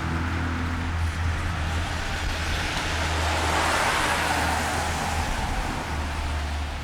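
A car passing on a wet road: the hiss of tyres on wet pavement swells to a peak about halfway through, then fades. A steady low hum runs underneath.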